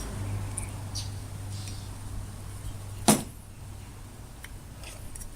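Light clicks of hand tools on metal and one sharp knock about three seconds in, as old nails are worked out of a hatchet's handle. A low steady hum underneath fades out around the knock.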